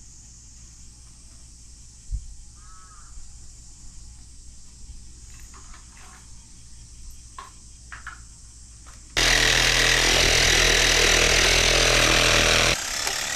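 Quiet outdoor background with a thump about two seconds in and a brief call, then about nine seconds in a chainsaw starts up loud and runs steadily for about three and a half seconds before cutting off sharply.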